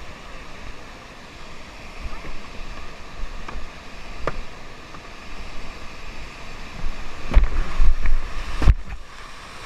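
Whitewater rapids rushing in a steady hiss of moving water. A few sharp knocks come through, and about seven seconds in heavy thumps and buffeting hit the microphone for a couple of seconds.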